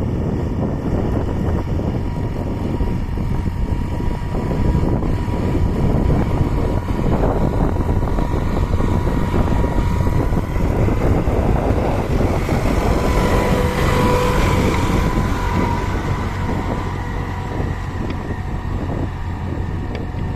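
Tractor engine running steadily under load while pulling a disc plough. A higher whine comes up for a few seconds past the middle.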